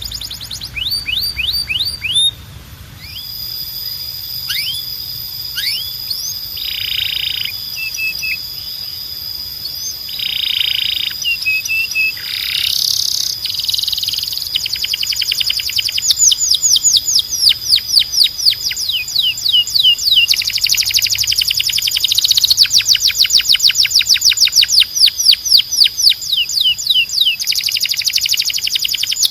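Domestic canary singing a long, continuous song: fast trills of repeated falling notes over a held high whistle, broken by short buzzy phrases.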